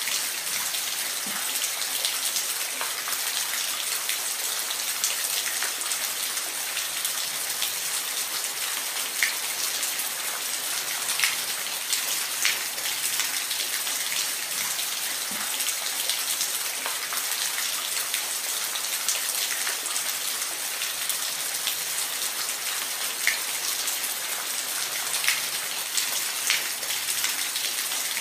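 Steady rain falling on a surface, an even hiss with scattered close drops ticking sharply through it.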